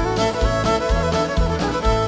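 Bluegrass band playing a fast fiddle instrumental live, two fiddles leading over guitar with a steady beat underneath.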